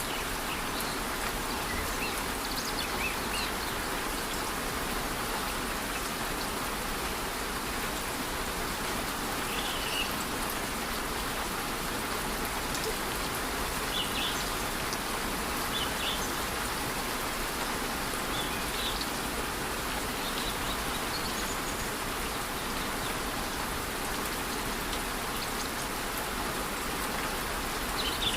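Steady, even hiss of falling water, a rainforest waterfall in light rain, with short high bird chirps here and there.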